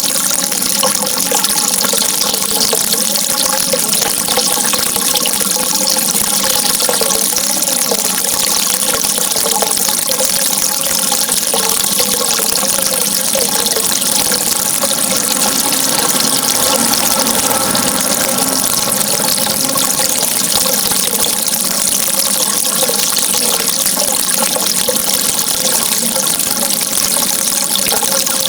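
Running water flowing steadily: a constant, even rush with a faint wavering gurgle underneath and no breaks.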